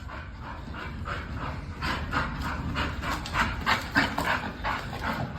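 Dog panting, quick breaths at about three a second.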